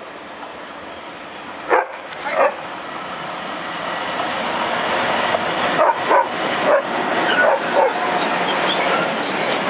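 Electric locomotive and freight wagons approaching and passing, their running noise growing steadily louder. A dog barks sharply twice about two seconds in and several more times later, over the train.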